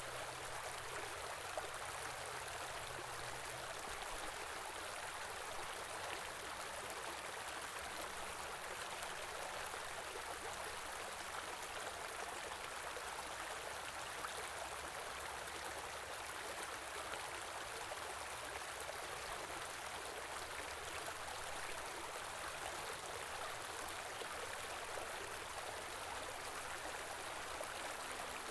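Small stream running steadily over stones, an even rushing and trickling of water.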